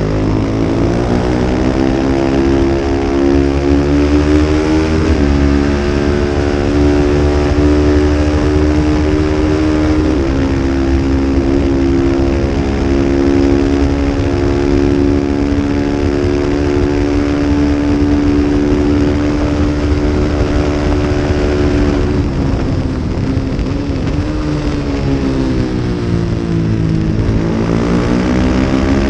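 Small-displacement 250-class race motorcycle engine running hard at high revs with wind rush. Its pitch climbs over the first few seconds, holds steady for a long stretch, drops about 22 seconds in as the bike slows, then climbs again near the end.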